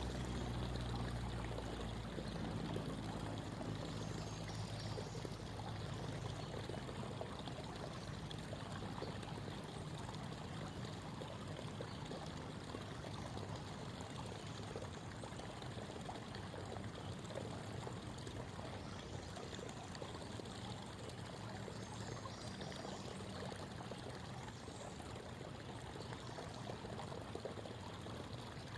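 Creek water babbling and trickling steadily over stones. A low hum fades away during the first few seconds.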